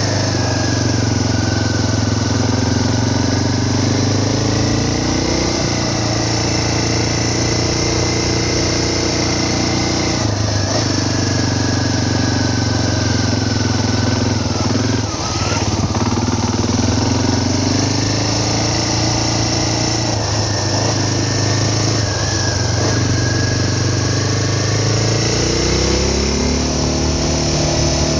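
Vehicle engine running under way, heard from on board; its pitch rises and falls with changing engine speed, with clear shifts about a third, half and two-thirds of the way through and again near the end.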